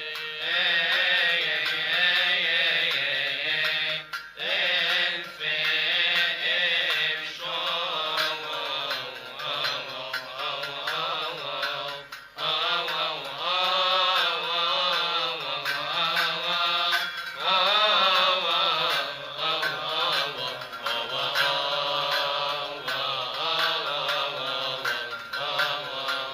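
A Coptic priest chanting a church hymn in a long melismatic line, his pitch winding up and down on held syllables, with short breaths about 4 and 12 seconds in.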